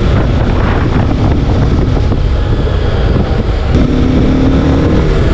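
TVS Apache RR 310's 312cc liquid-cooled single-cylinder engine running under way, with wind buffeting the microphone. The engine note shifts to a steadier tone about two-thirds of the way in.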